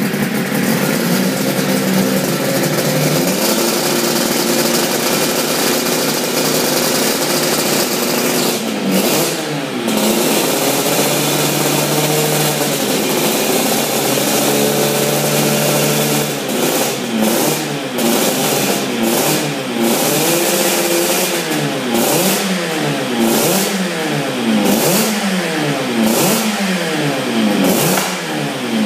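Suzuki RG500's two-stroke square-four engine running at idle. It is blipped once about nine seconds in, then held at a steady higher speed for a few seconds. From just past halfway it is revved in quick repeated blips, about one a second.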